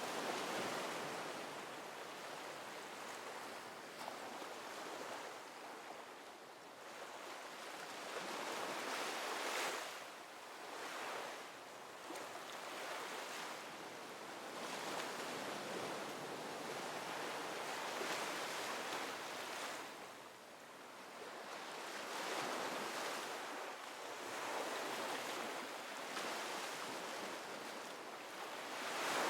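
Ocean surf: waves breaking and washing in, surging and ebbing every few seconds.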